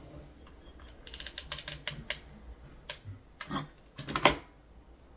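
Light clicks and taps of small craft materials being handled: a quick run of clicks about a second in, then a few single clicks, the loudest near the end.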